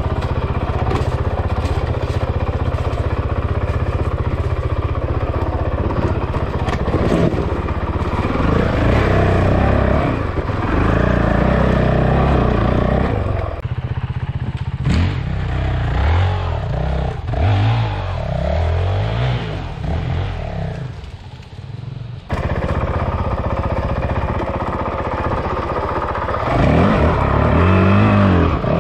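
Honda CRF450L single-cylinder four-stroke dirt-bike engine running under load on a trail, the revs rising and falling repeatedly with the throttle. Near the end the revs climb hard.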